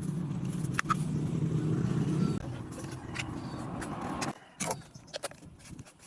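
Homemade bottle-and-balloon horn being blown, a steady low buzzing drone. Its tone drops a little about two and a half seconds in, and it stops about four seconds in, followed by a few clicks.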